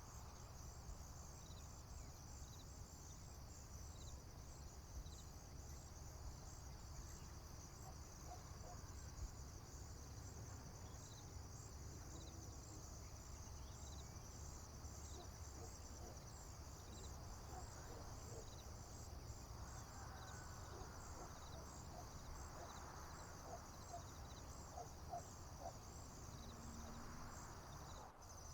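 Faint, steady chorus of crickets and other insects trilling high over a low rumble. A few faint short chirps sound in the middle of it. The chorus drops out briefly near the end.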